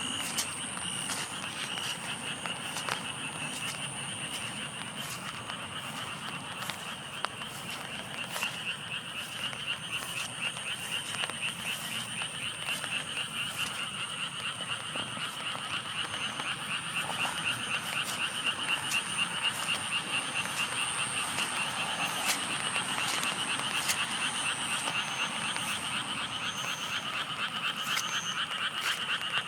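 A chorus of frogs calling in a fast, continuous pulsing trill that grows louder about halfway through, with scattered sharp ticks over it.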